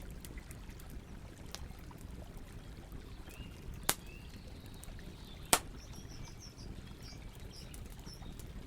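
Campfire burning in a forest, with sharp pops and snaps of burning wood, the loudest about five and a half seconds in, over a low steady rumble. Faint birds chirp in the background.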